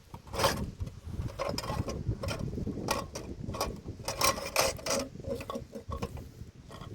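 A run of irregular mechanical knocks and clatter over a low rumble, loudest about half a second in and again about four seconds in.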